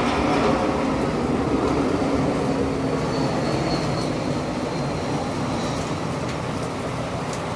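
Steady rain with a low, deep rumble that slowly fades away.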